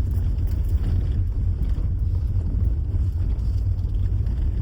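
Steady low rumble with wind buffeting the microphone, with no distinct events.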